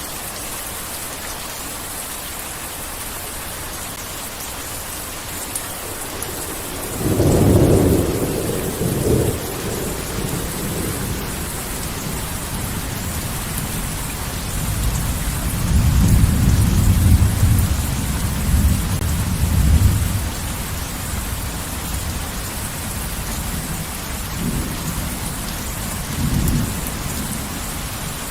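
Heavy rain falling steadily, with rolls of thunder: a first loud rumble about a quarter of the way in, a longer, louder one past the middle, and two shorter ones near the end.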